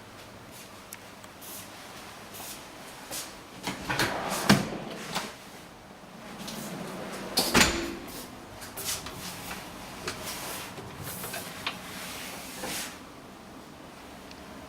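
Cupboard doors being opened and closed: a series of clicks and knocks, the loudest about four and a half and seven and a half seconds in.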